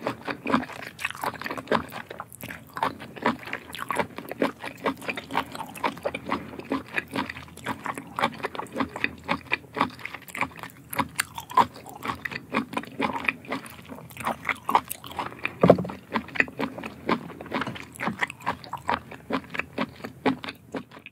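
Close-up wet chewing, slurping and loud lip-smacking on raw octopus tentacles: a steady stream of short sticky clicks and smacks, with one louder, deeper smack about three-quarters of the way through.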